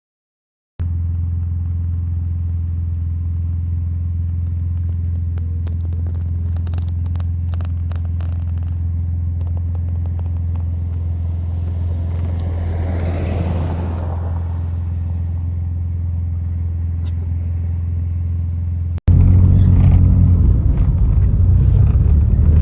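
Backhoe's diesel engine running with a steady, even low drone. About nineteen seconds in it cuts to a louder, rougher engine sound.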